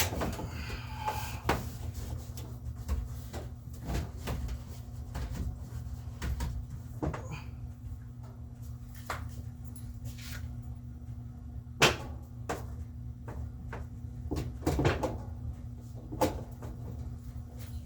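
GE top-load washer running a test spin on its new tub: a steady low hum, with irregular clicks and knocks throughout and a sharper knock about twelve seconds in.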